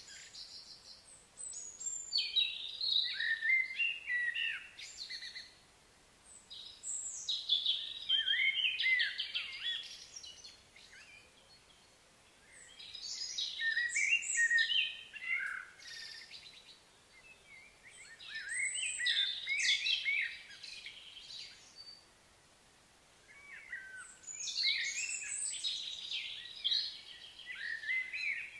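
A songbird singing: five phrases of quick, varied chirping notes, each a few seconds long, repeating about every five to six seconds with short pauses between them, over a faint outdoor background.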